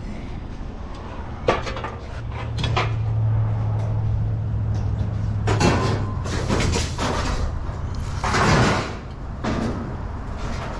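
Metal scrap being handled, with a few sharp knocks and two longer bursts of clattering over a steady low engine hum.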